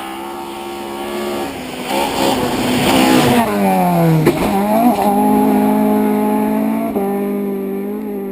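Rally car engine at high revs, the note dropping steeply as the car slows about four seconds in, then climbing straight back up as it accelerates again. It is loudest in the middle.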